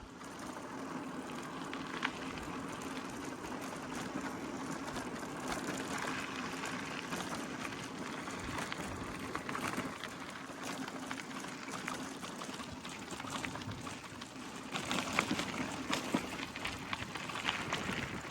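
Gravel bike rolling along a road: steady tyre noise with a faint hum and scattered small ticks, turning more crackly about fifteen seconds in.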